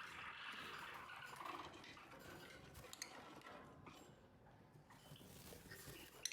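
Faint sounds of lovebirds moving about: a soft rustle with a few light clicks, the sharpest one near the end.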